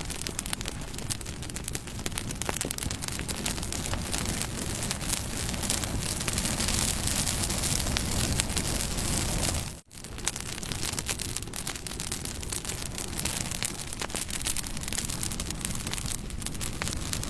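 Wood fire crackling and popping, a steady hiss broken by many sharp snaps. The sound cuts out for an instant about ten seconds in, then goes on as before.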